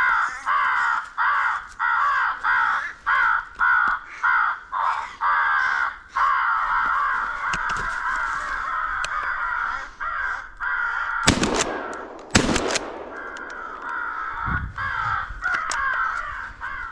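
Crows cawing loudly, in quick repeated calls, with two shotgun blasts about a second apart past the middle, after which the cawing carries on.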